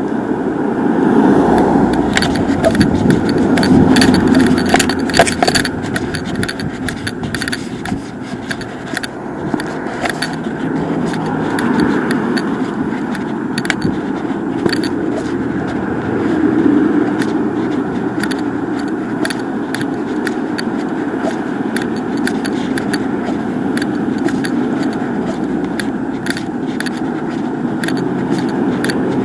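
Road traffic going by in slow swells, with many small clicks and rattles close to the microphone.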